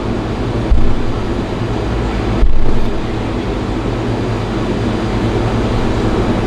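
A steady low mechanical hum, like a running fan or blower, with two dull low thumps, one under a second in and another about two and a half seconds in.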